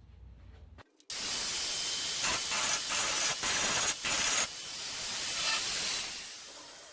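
Welding arc on car body steel, a loud even hiss running in a few short runs with brief breaks and tailing off near the end: an awkward weld being laid under the car, with spatter falling onto the welder.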